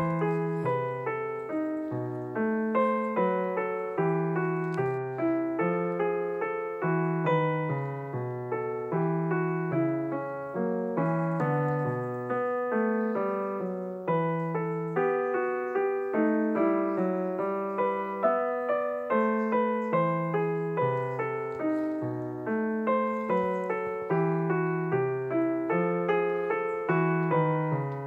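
Solo piano music: a continuous, flowing run of struck notes.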